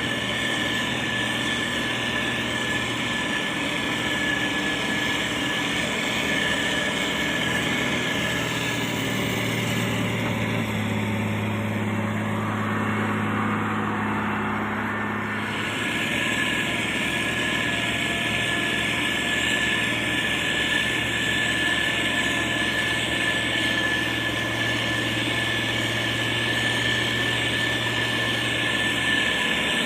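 Motor grader's diesel engine running steadily under work, with a constant high whine above the drone. For about five seconds in the middle the engine note changes and the hiss thins, then it settles back.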